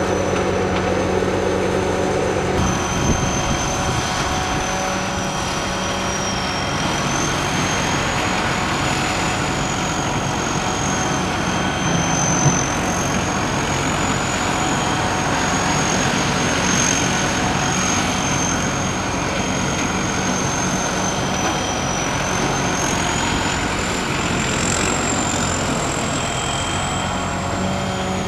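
Sakpattana SS-200 mini combine harvester running steadily, its engine and machinery making a dense mechanical noise topped by a high whine that slowly wavers in pitch. Two brief knocks stand out, about three seconds in and again near the middle.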